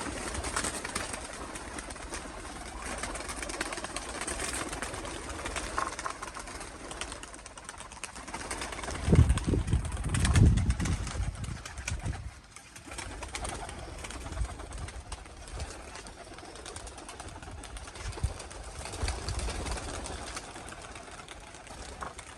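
Domestic pigeons cooing and stirring. A loud low rumble runs from about nine to eleven seconds in.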